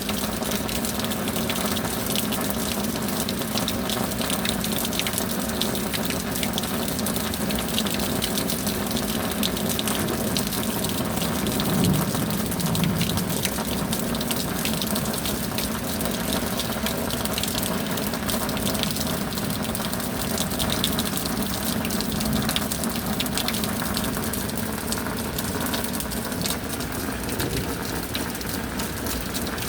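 Steady rain: a dense patter of drops over a continuous rush of water.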